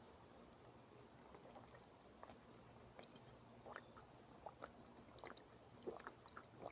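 Near silence in a forest, with scattered faint clicks and crackles.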